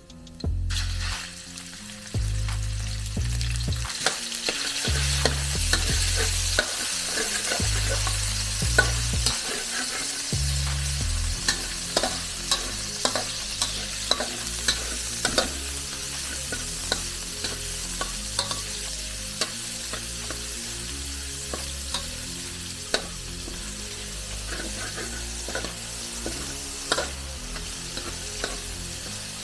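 Egg fried rice sizzling in a hot pan as it is stirred and tossed, with a spatula clicking and scraping against the pan over and over.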